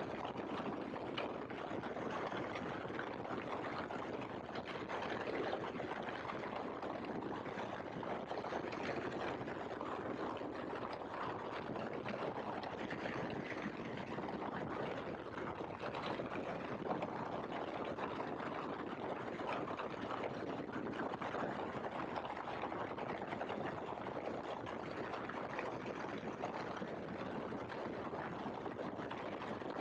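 Steady hiss of engine and wind noise from a Great Lakes open-cockpit biplane in cruise flight, even and unchanging, with no clear engine note.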